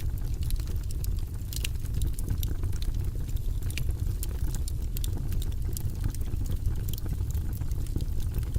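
Fire burning in a fireplace: a steady low rumble of flames with scattered sharp crackles and pops from the burning wood.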